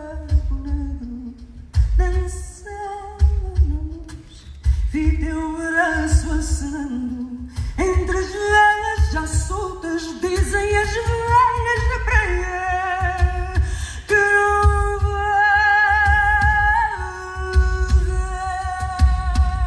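Female fado voice singing a long, ornamented vocal line that glides between pitches and settles into long held notes with vibrato, over a low pulsing beat.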